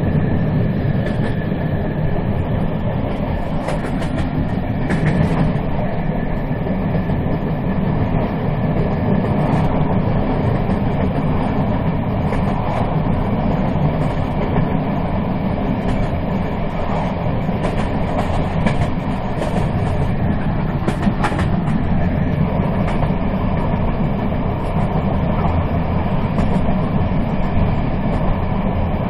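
A moving train running steadily, its wheels rumbling on the rails, with a few short sharp clicks from the track.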